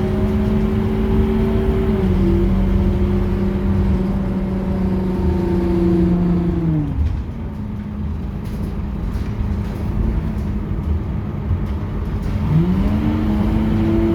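Scania K230UB city bus running, heard from on board, with a steady whine that falls away as the bus slows about seven seconds in. The diesel drones on until the whine rises again as the bus pulls away near the end.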